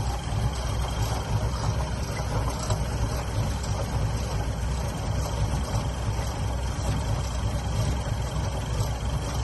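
1976 Cadillac Coupe DeVille's 500-cubic-inch V8 idling steadily.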